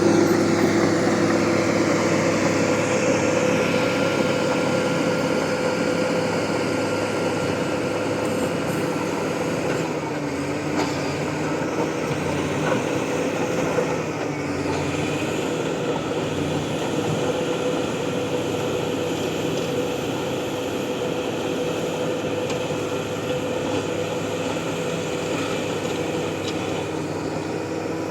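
Bulldozer's diesel engine running steadily, its note dipping briefly a few times partway through as it takes load.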